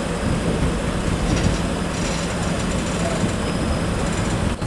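Passenger train running, heard from its own coach doorway: a steady rumble of wheels on the rails.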